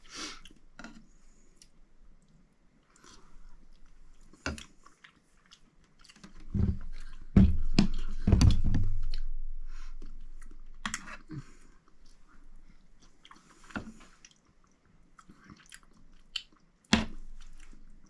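Close-up chewing of a soft rehydrated noodle meal, with scattered small clicks. About seven seconds in comes a loud cluster of low thumps with a rumble that fades over several seconds.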